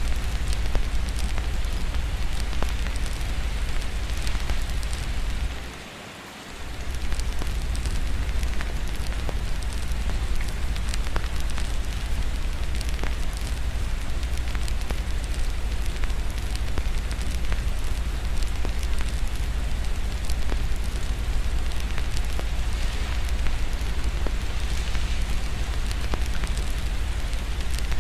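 Steady rain with a crackling wood fire, scattered small crackles over an even hiss and a constant low rumble. Everything drops away briefly about six seconds in, then resumes.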